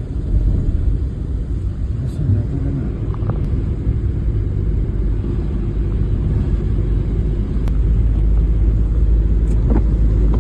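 Snowstorm wind buffeting the microphone: a loud, uneven low rumble that swells a little near the end, with a few faint clicks.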